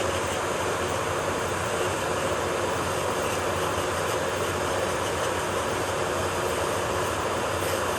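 Electric nail drill running steadily: an even whir and hiss at constant speed.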